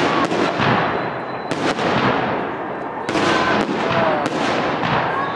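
Fireworks display: large aerial shells bursting in quick succession, about ten sharp bangs in five seconds over a steady crackling rumble.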